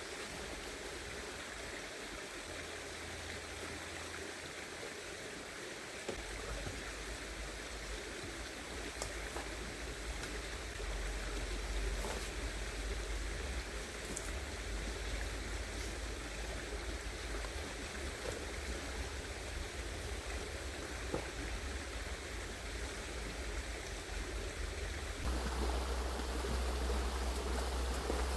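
Shallow river flowing steadily, an even rushing hiss of water. A low rumble comes in about six seconds in and gets louder near the end, with a few faint clicks.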